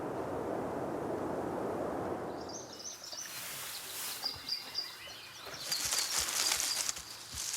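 Outdoor nature ambience. A rushing haze fades away in the first few seconds, then small birds chirp in quick repeated series over a faint hiss.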